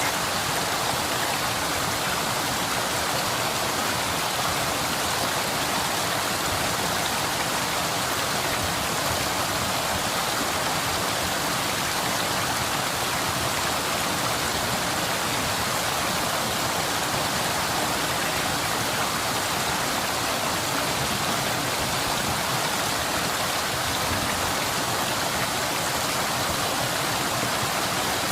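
Waterfall and stream water pouring steadily: a dense, even rush of water that never changes.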